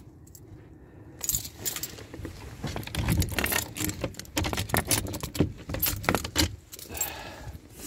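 A bunch of keys jangling and clicking in the hand as they are sorted to find the one for a lock, starting about a second in.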